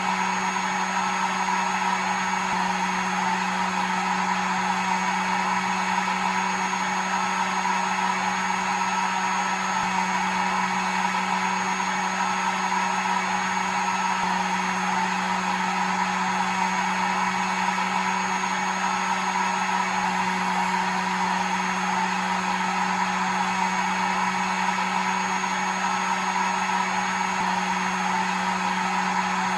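Electric hair dryer running steadily: a constant blowing rush of air with a steady motor hum underneath and a faint high whine.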